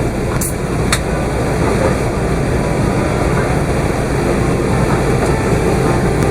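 Steady cabin noise inside an Airbus A380 taxiing: the engines and air-conditioning make a constant low rush, with two short high clicks about half a second and a second in.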